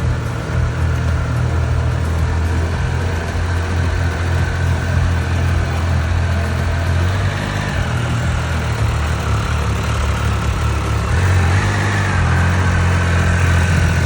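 Triumph Speed Triple 1200's inline three-cylinder engine running steadily at cruising speed under a constant rush of wind noise, heard from the rider's position.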